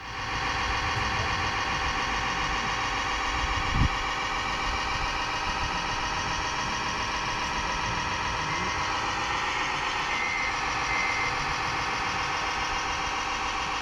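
RC model truck's diesel engine sound running steadily, cutting in abruptly. A low thump comes about four seconds in, and two short high beeps come around ten seconds in.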